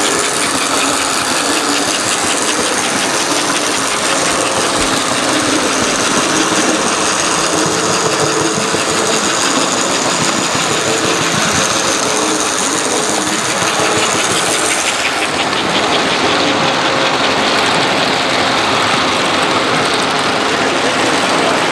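Model train running on a layout's track: a steady whirring and rattling with a faint, fast, even clicking.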